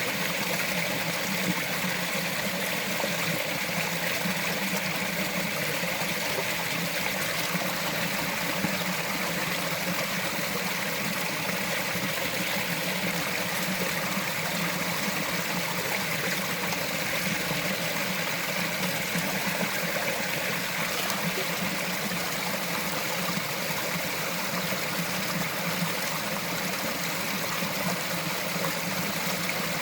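Small mountain stream trickling and gurgling over rocks, a steady even rush of water.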